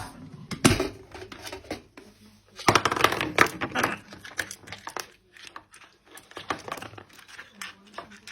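Scattered clicks and light knocks as a pet parrot handles a kettle lid, with a louder knock under a second in and a denser patch of scraping and rattling about three seconds in.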